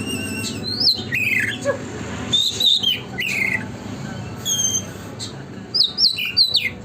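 Oriental magpie-robin (kacer) singing a busy, varied song of clear whistled notes and quick up-and-down slurs, phrase after phrase with short gaps, over a steady low hum.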